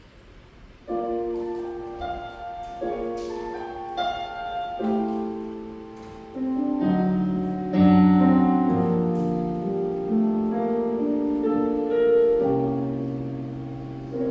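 Piano-style keyboard playing slow sustained chords as the instrumental intro to a worship song, coming in about a second in after a near-quiet gap. Deeper bass notes join about halfway through.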